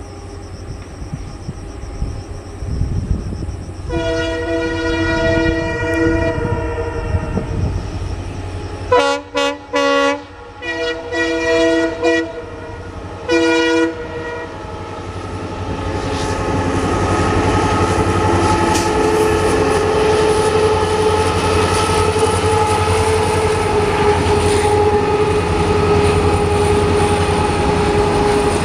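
EMD WDG4 diesel-electric freight locomotive approaching with its engine rumble growing, then sounding its horn: one long chord of about four seconds, followed by several short blasts. The freight train then passes close by with steady rolling wheel noise and a held high squeal from the wheels on the curve through the later part.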